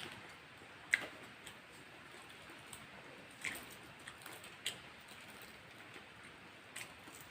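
Faint, close-up eating sounds: short wet mouth clicks and smacks while chewing, coming irregularly about a second or more apart.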